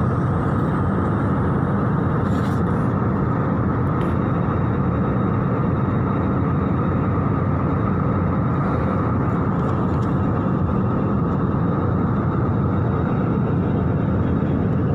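Airliner cabin noise in flight: the steady rush of engines and airflow, holding level throughout.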